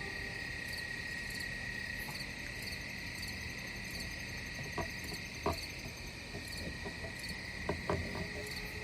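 Night insects chirping: a steady high-pitched drone with regular short chirps a little under two a second, and a few faint clicks in the second half.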